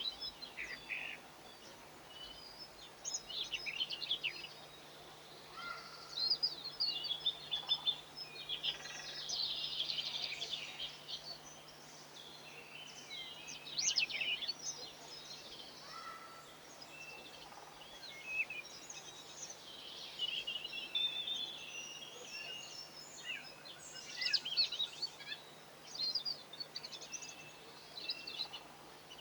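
Small songbirds chirping and twittering in quick runs of high notes, one after another, over a faint steady low hum.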